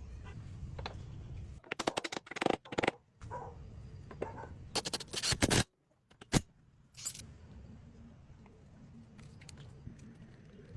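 Hand work on metal parts: bursts of clicks, knocks and scraping over a low steady hum, with a couple of abrupt gaps.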